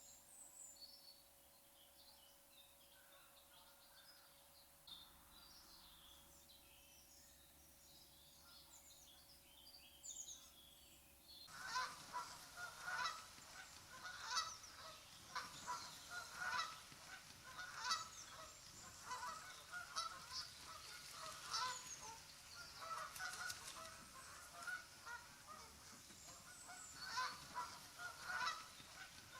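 Faint, scattered high chirps of small birds, then an abrupt change about eleven seconds in to a flock of geese honking, many calls overlapping.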